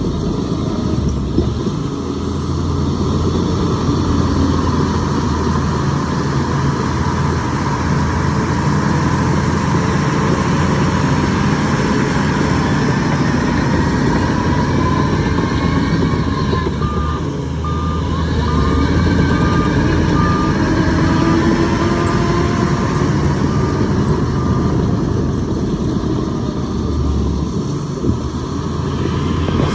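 Heavy diesel machinery engine running steadily, with a reversing alarm beeping about ten times in short, even pulses around the middle.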